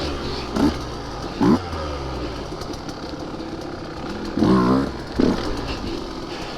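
Dirt bike engine running at low revs, blipped up in several quick revs. The longest rev comes about four and a half seconds in.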